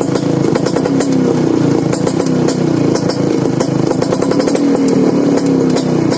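Vespa PX two-stroke single-cylinder scooter engine running through an Apocalipto aftermarket exhaust, its pitch wavering slightly. Quick metallic ticks ring over the engine note: the jingling 'kemrincing' sound this exhaust is fitted for.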